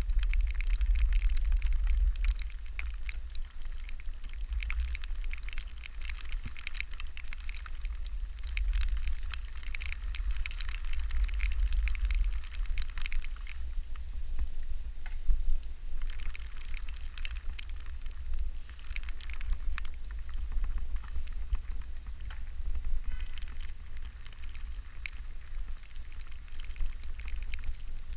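Rain pattering and crackling in dense small drops, over a heavy steady rumble of wind buffeting the microphone. The patter is thickest in the first half and thins a little about halfway through.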